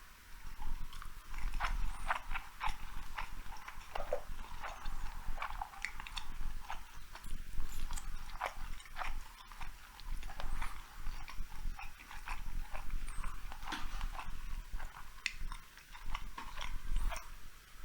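Close-miked chewing of sushi rolls: irregular wet smacks and soft crackles of a mouth eating, with no talking.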